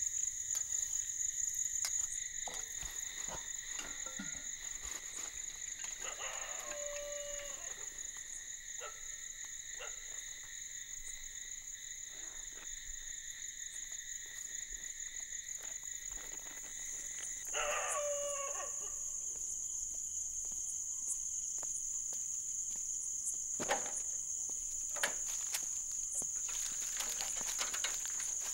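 Crickets chirring steadily, with a rooster crowing twice: once about six seconds in and again a little past the middle. A single sharp knock comes later.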